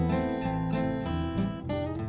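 Acoustic guitar strummed between sung lines of a song.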